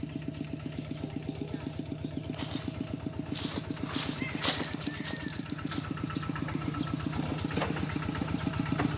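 Single-cylinder diesel engine of a two-wheel walking tractor running with a steady, fast putt-putt. A short clatter about halfway through is the loudest moment.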